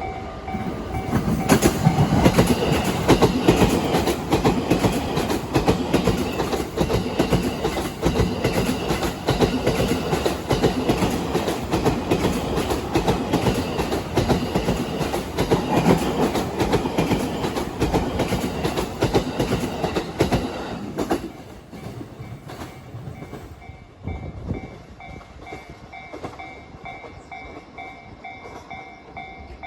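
Train passing over a level crossing, its wheels banging loudly over the rail joints in a fast, dense clatter for about twenty seconds before it stops abruptly. The crossing's warning bell rings steadily at the start and again after the train has passed.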